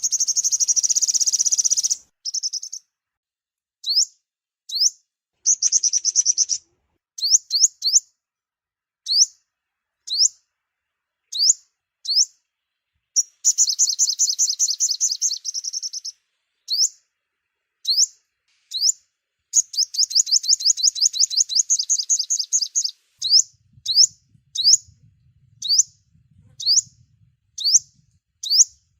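Sunbird calls: high, thin, upward-sweeping chirps repeated about once a second, broken by rapid trills lasting two to three seconds, played as a trapping lure.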